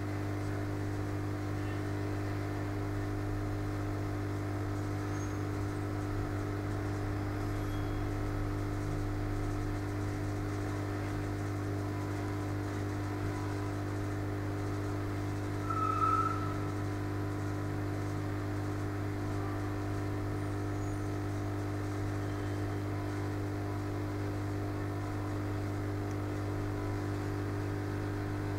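Steady low electrical hum, with one brief higher-pitched squeak about halfway through.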